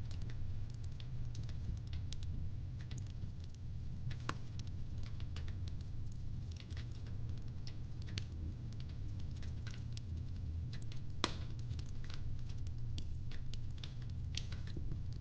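Fireplace crackling: irregular sharp pops and snaps over a steady low rumble, with one louder snap about eleven seconds in.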